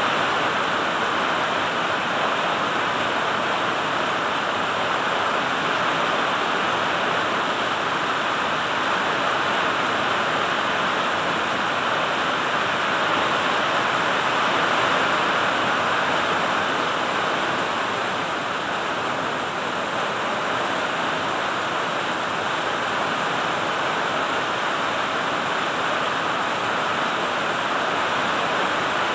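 Rain falling steadily on the leaves of trees and shrubs, an even hiss with no thunder.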